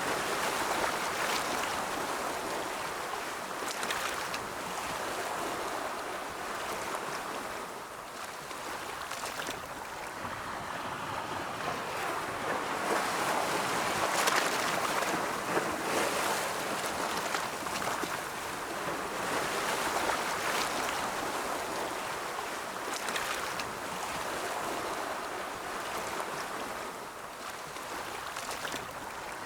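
Ocean waves breaking and washing in, a steady hiss of surf that swells and ebbs slowly, with the loudest surge about halfway through.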